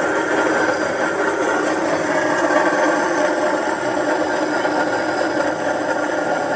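A motor or engine running steadily, a constant mechanical drone.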